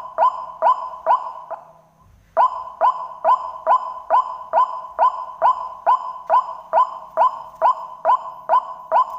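White-breasted waterhen (ruak-ruak) lure call played back on repeat through a small speaker: sharp, evenly paced notes about two a second. The notes stop briefly about two seconds in, where the loop restarts.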